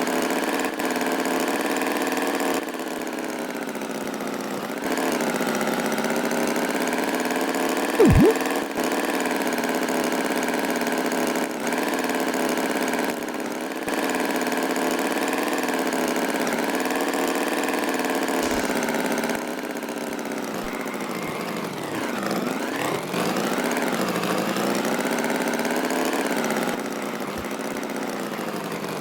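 Tractor engine running steadily, its pitch rising and falling slightly, with sweeping changes in pitch about two-thirds of the way through. A short, loud, rising squeak cuts in briefly about eight seconds in.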